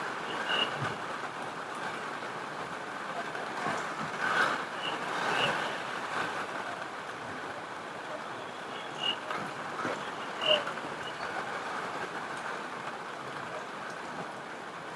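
Steady heavy rain, with a few louder pops and short high chirps scattered through it.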